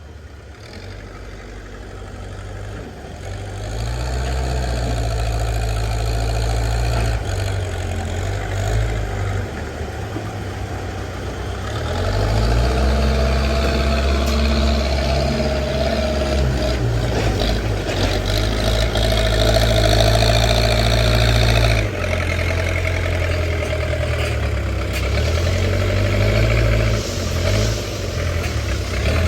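Backhoe loader's diesel engine working under load, revving up and easing back as it digs and lifts, louder from about 4 s in and again from about 12 s, with a brief drop near 22 s.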